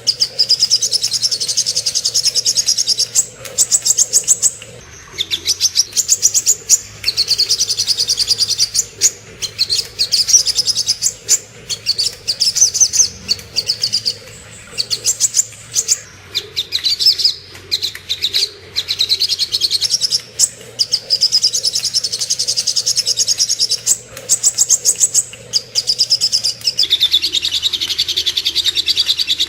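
Sogok ontong bird singing: long runs of rapid, high, chattering notes repeated many times a second, in phrases of a couple of seconds broken by short pauses. A faint low hum runs underneath.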